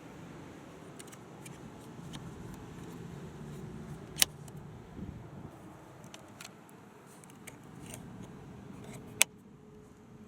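A low steady hum with a few light clicks, and two sharp, loud clicks about five seconds apart.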